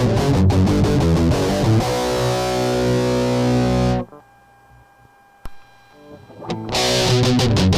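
Electric guitar played through a Caline CP-15 Tantrum heavy metal distortion pedal: fast distorted riffing, then a held chord that rings and cuts off suddenly about four seconds in. A short quieter gap with a faint hum and one click follows, and the distorted riffing starts again near the end.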